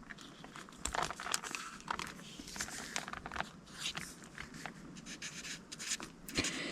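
Paper task cards being handled and sorted, with irregular rustling and short scratchy strokes.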